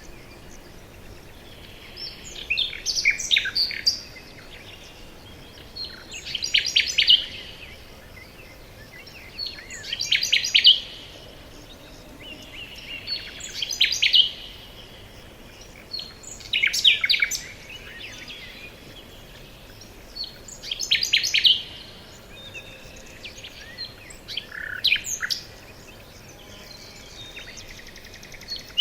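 Birdsong in a forest: a songbird singing short phrases of quick chirps and trills, one phrase roughly every four seconds, with faint steady hiss between them.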